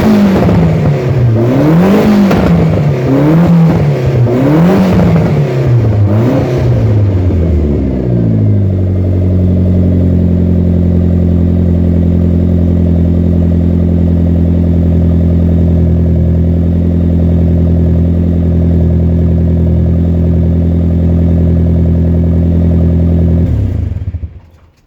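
Saab B204 2.0-litre four-cylinder engine in a Mk2 Ford Escort, running through a 3-inch exhaust that exits short at the rear axle. The throttle is blipped about five times in quick succession, then the engine settles to a steady idle and is switched off near the end.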